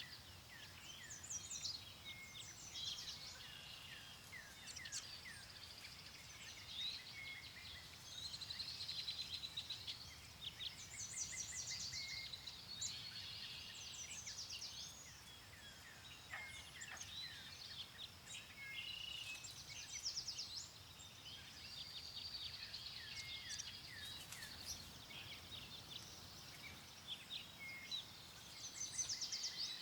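Many songbirds chirping and trilling at once in a continuous chorus, over a faint low rumble of wind.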